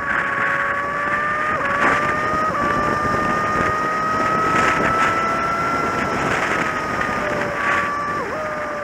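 Kawasaki Z750's inline-four engine running at cruising speed under a steady rush of wind. Its pitch climbs slowly, steps down briefly twice about two seconds in, and dips sharply near the end.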